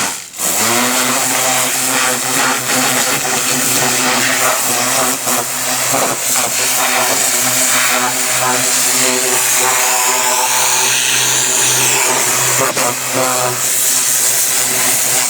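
Pressure washer's motor-driven pump running with a steady hum while the water jet hisses against the engine bay. It starts suddenly and runs unbroken, cleaning the Honda R18A engine.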